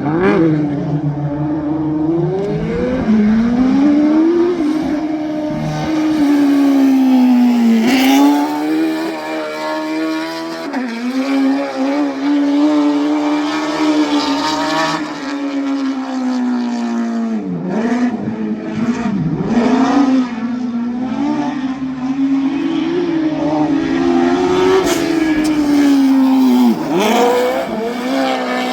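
Twin Suzuki Hayabusa motorcycle engines in a mini truck being driven hard, revving up and down with several sharp lifts and dips in pitch, while the tires squeal as they are burned off.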